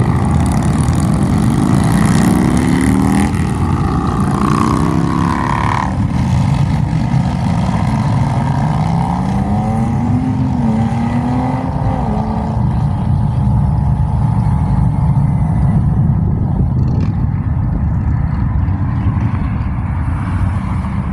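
Motorcycle engine running loudly and being revved: the pitch climbs a few times in the first six seconds and again about nine to twelve seconds in, then it settles to steady running.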